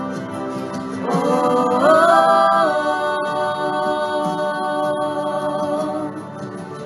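Music: a worship song, with a singer holding one long wordless note that steps up in pitch about two seconds in.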